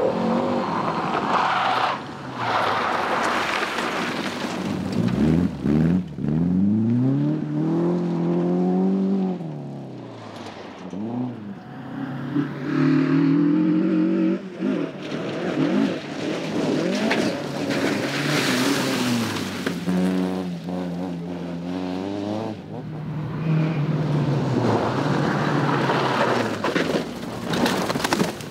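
Historic rally cars driven hard on a special stage, one after another: engines revving up and dropping back through gear changes, with bursts of tyre and road noise as they pass.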